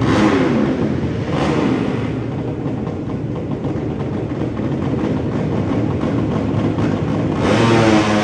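Drag-race motorcycle engines running, with a louder engine revving up about seven seconds in.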